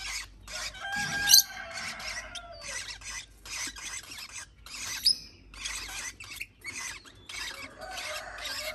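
Parrot chicks giving raspy, hissing begging calls in a run of short bursts about twice a second, with a few brief squeals, as they beg to be spoon-fed formula.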